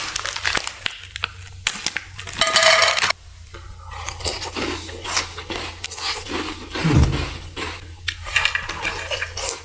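Close-miked handling of food packaging and tableware: crinkling and tearing, with scattered clinks, taps and scrapes. The crackliest stretch comes about two and a half seconds in.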